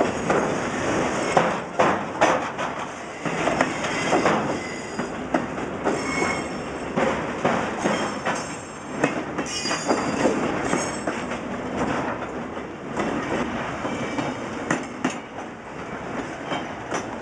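Freight cars rolling past, their steel wheels clacking over rail joints with a constant clatter of clanks. Brief high wheel squeals come about six and ten seconds in.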